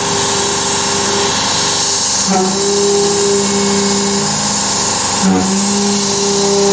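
Carvera Air desktop CNC milling machine running a cut: a steady loud hiss with humming motor tones that change pitch abruptly twice, about two and a half and five seconds in, as the machine changes its moves.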